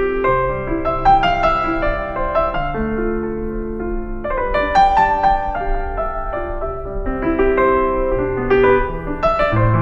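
Background piano music: a slow melody over sustained chords, at a steady level.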